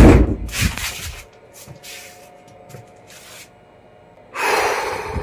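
A sudden loud bang, like a heavy knock or something slamming in the building, that rings on for about a second, followed by a few fainter knocks and rattles. Near the end comes a short hissing, breathy burst.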